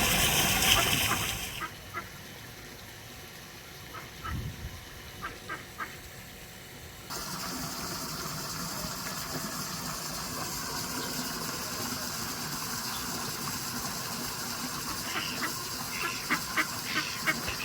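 Birds calling in short chirps over steady background noise, which changes abruptly twice; the calls come in small clusters, with a busier run of chirps near the end.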